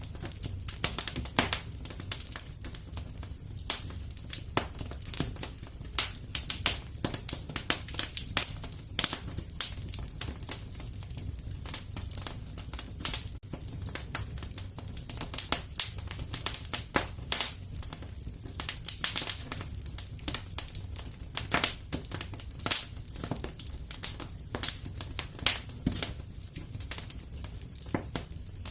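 Wood fire crackling in a fireplace: many irregular sharp pops and snaps over a steady low rumble of the burning fire.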